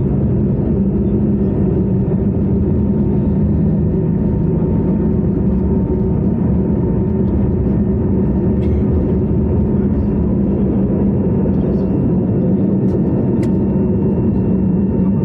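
Steady cabin noise inside an Airbus A321neo: the drone of its Pratt & Whitney geared turbofan engines and rushing air, with a low hum and a faint steady whine. A couple of faint ticks come from the cabin.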